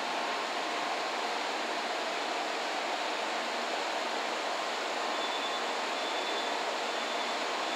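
N700-series Shinkansen train rolling slowly alongside the platform as it arrives: a steady rushing noise with a few faint, thin whining tones.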